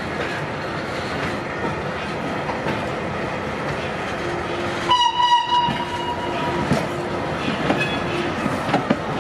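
Vintage passenger coaches of a steam-hauled train rolling slowly by over the rails, wheels clacking. About five seconds in, a high steady tone holds for a second or so, alongside a lower tone that comes and goes.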